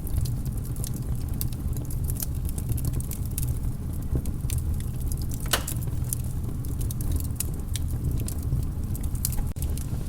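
Wood fire in a fireplace crackling: a steady low rumble of flame with frequent small pops and snaps, and one sharper pop about five and a half seconds in.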